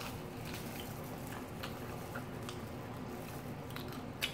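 Crispy wasabi-powdered fried chicken crunching as it is bitten and chewed: scattered small crackles, with a sharper crunch about four seconds in.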